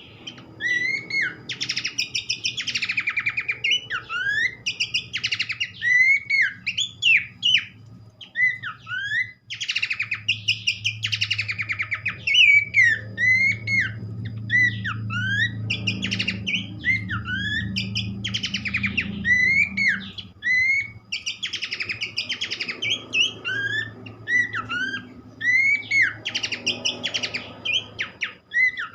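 Horsfield's babbler (pelanduk semak) song: short whistled notes that rise and fall, repeated over and over, alternating with fast chattering runs of higher notes. A faint low hum lies underneath.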